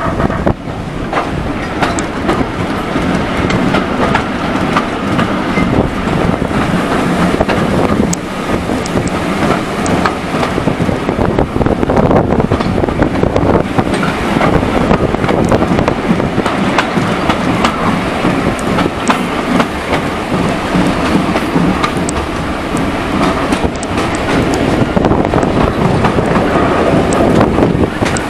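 Heritage railway train running along the line, heard from a window of the carriage: a steady rumble of wheels on the track with irregular clicks over the rail joints.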